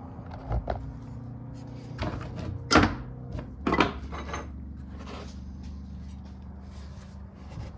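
Clunks and clicks of a bicycle rear wheel being handled and fitted back into the frame: about half a dozen separate knocks, the loudest near three seconds in.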